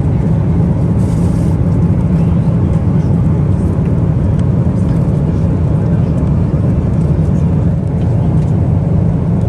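Steady low rumble of a Boeing 777-300ER cabin in flight: engine and airflow noise with no change in level.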